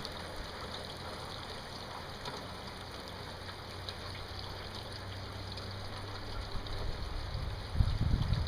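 Steady heavy rain falling, an even hiss with scattered drop ticks over a low steady hum. Low rumbling thumps come in near the end.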